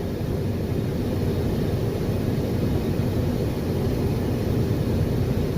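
Steady low rumble of a semi truck on the move, heard inside the cab: engine and tyre noise on a snowy road.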